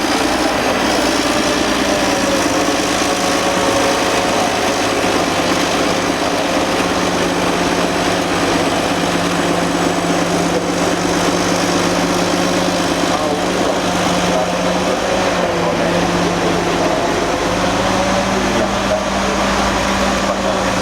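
Old Caterpillar D8 bulldozer's diesel engine running steadily, its pitch dipping briefly about two-thirds of the way through.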